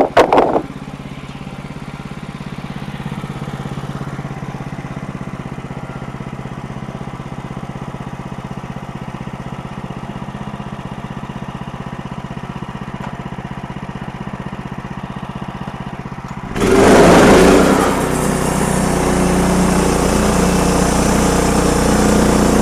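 Sawmill engine running steadily, with a short clank right at the start. About sixteen seconds in, the sound suddenly gets much louder and noisier as the blade enters the log and cuts.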